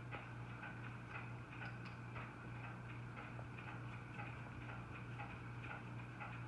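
Faint light ticking taps, a few a second and not quite even, over a steady low hum.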